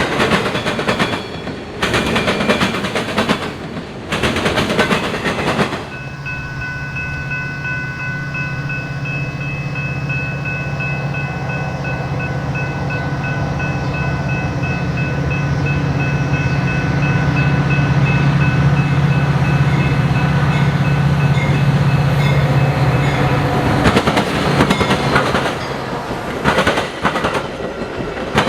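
A passing train: its wheels clatter over the rail joints, then a diesel locomotive's engine drone with a faint whine swells and fades, and the wheel clatter returns near the end.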